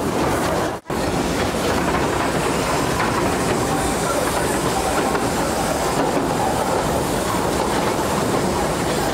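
Running noise of a 2 ft gauge steam train's open carriages rolling and rattling along the track, heard from on board. It cuts out briefly about a second in.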